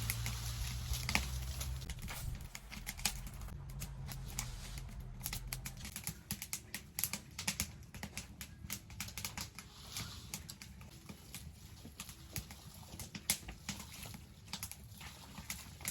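Irregular sharp light clicks and crackles, scattered and uneven, with a low steady hum underneath that fades out about six seconds in.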